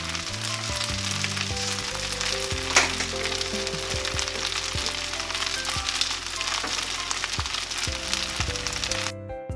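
Kimchi fried rice sizzling in a nonstick frying pan, a steady frying hiss with one sharp click about three seconds in. The sizzle cuts off suddenly near the end.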